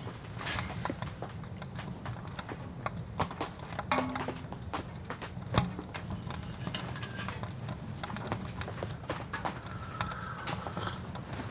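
Irregular sharp ticks and taps over a steady low hum.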